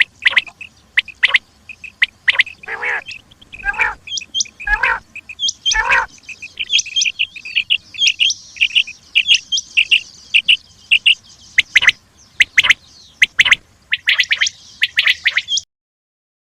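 Common quail calling: a dense run of short, sharp, high call notes, with a few lower grating notes a few seconds in. It cuts off abruptly near the end.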